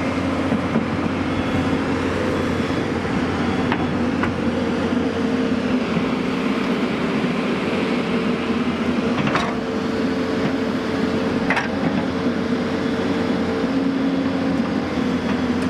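Heavy vehicle's diesel engine running steadily, with a few faint clicks.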